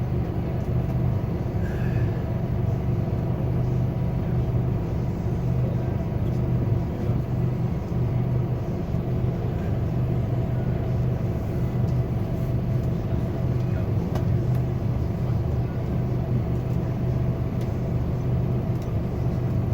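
Scania K280UB4 city bus's five-cylinder diesel engine running steadily, heard from inside the bus as an even low drone with road noise and no marked revving.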